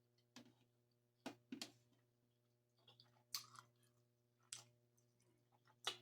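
Faint close-up mouth sounds of a person eating: chewing and wet lip or tongue clicks, about six short sharp clicks spread over a few seconds with near silence between them.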